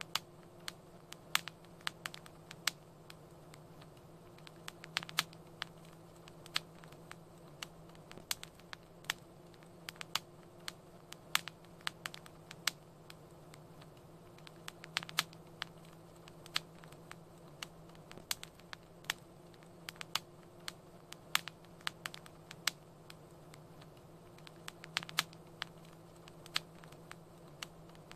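Wood fire in a fireplace crackling, with irregular sharp pops and snaps scattered a few a second over a low steady hum.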